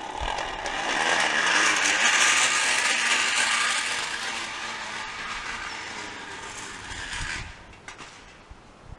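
A can held against a bicycle wheel's spokes, buzzing and rattling like a dirt-bike engine as the bike is ridden. The buzz grows louder over the first two seconds, then fades and stops abruptly about seven seconds in.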